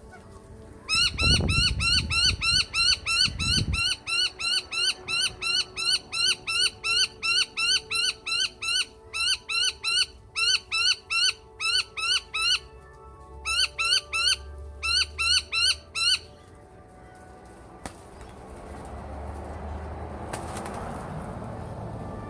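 A bird calling one short, clear note with an upward flick, over and over at about three a second, with a few brief pauses, then falling silent. A low rumble lies under the first few calls, and a soft rushing hiss rises near the end.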